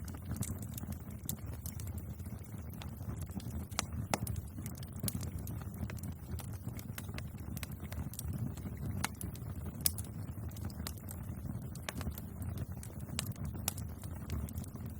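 Wood fire burning with a steady low roar and irregular sharp crackles and pops, a few of them louder.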